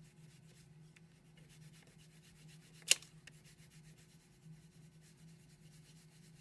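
Crayon or marker rubbing back and forth on paper in quick, even strokes while colouring in a shape. A single sharp click a little under three seconds in.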